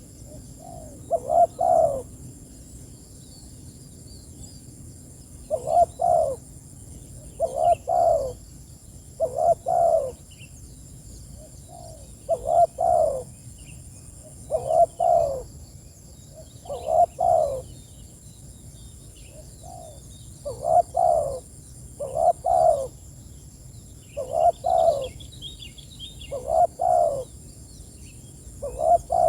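Spotted dove (tekukur) cooing: a short phrase of a few low coo notes, repeated about every two seconds with the occasional longer pause.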